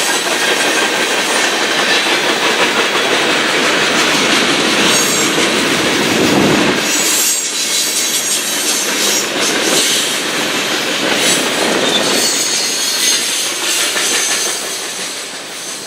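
Norfolk Southern freight train's cars rolling past: steady rumble and clatter of wheels on the rails, with a faint high wheel squeal. It fades over the last couple of seconds as the train goes by.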